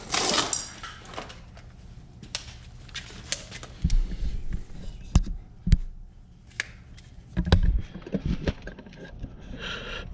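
Hand work on equipment: scattered sharp clicks and light knocks, with several dull thumps through the middle and later part.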